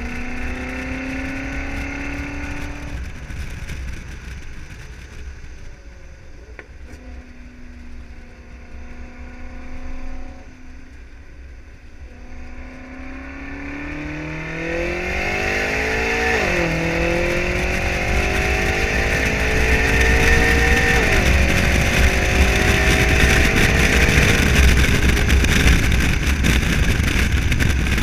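BMW M5 30 Jahre's twin-turbo V8 through an Akrapovič exhaust, accelerating hard. The revs climb and are let off about three seconds in, the engine runs lighter for around ten seconds, then pulls hard again, with two quick upshifts that drop the pitch sharply, the second a few seconds after the first.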